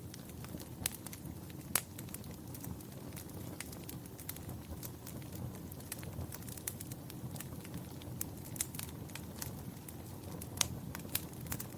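Fireplace fire crackling: irregular sharp pops and snaps over a steady low rumble of the flames, with the loudest pops about two seconds in and near the end.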